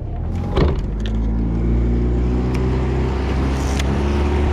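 Outboard motor running steadily at speed, a low, even drone, with a short knock about half a second in.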